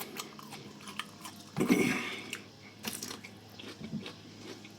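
Close-miked eating sounds: chewing and lip smacking, with one louder, wet, crunchy bite about one and a half seconds in and a few smaller ones after.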